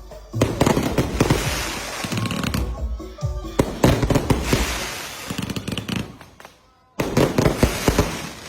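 A multi-shot fireworks barrage firing, a dense run of rapid bangs and crackles that fades out about two-thirds of the way through and then starts again abruptly.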